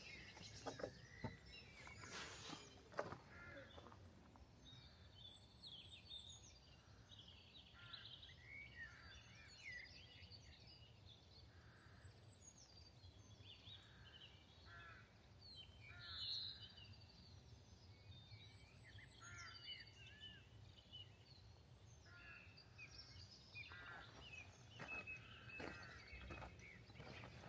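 Faint small birds chirping and calling again and again in short phrases, with a few footsteps in the first few seconds and again near the end.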